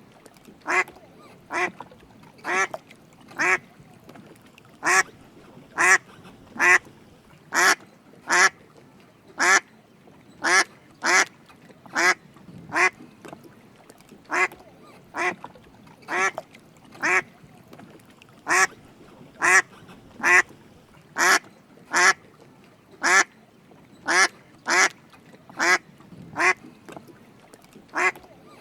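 Drake mallard quacking over and over: short calls, often in pairs, about one to two a second.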